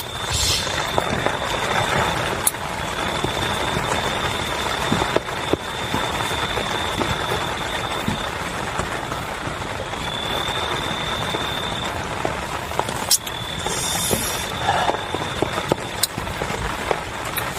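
Heavy rain falling steadily, with scattered sharp drips striking close by. A thin, high, steady tone comes and goes over the rain.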